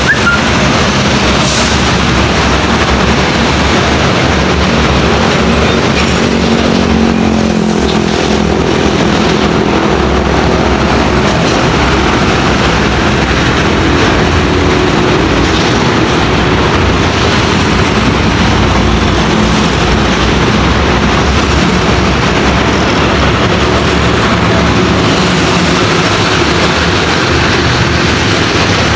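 Heavy road traffic with trucks driving past: steady engine drone and tyre noise, one engine's pitch shifting a little partway through.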